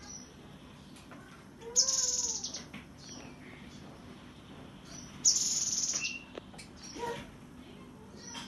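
Cinereous tit (gelatik batu) singing in two rapid, high-pitched trilled bursts, each under a second long, about two seconds in and again about five seconds in.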